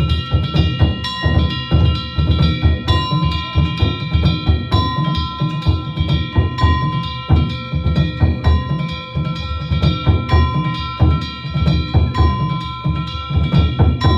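Danjiri ohayashi festival music: taiko drums beaten in a fast, driving rhythm, with small hand gongs (kane) ringing steadily over them.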